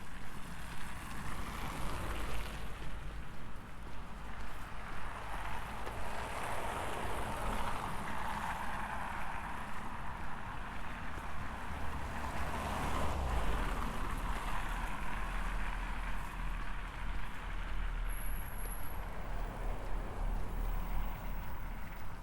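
Road traffic passing: vehicles go by one after another, their tyre and engine noise swelling and fading as each passes, over a low rumble.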